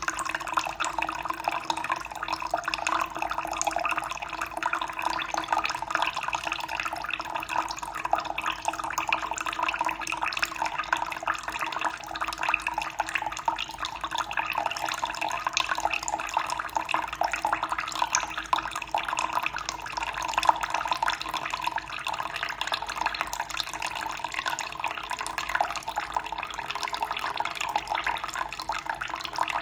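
Running water splashing steadily and without a break, a continuous flow with fine bubbling and trickling detail.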